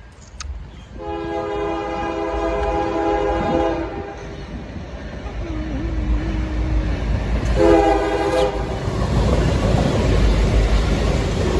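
Diesel locomotives of a Norfolk Southern intermodal train sounding their air horn as the train approaches: a long blast of about three seconds, then a short one near the end. Under the horn, the engines' low rumble and the rail noise grow steadily louder.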